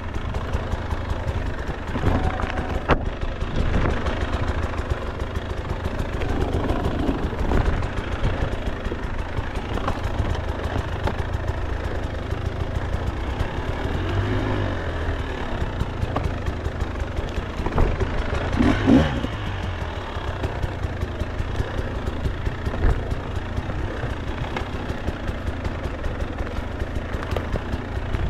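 KTM two-stroke enduro dirt bike engine running and revving up and down as the bike is ridden over rough trail, with a few sharp knocks along the way.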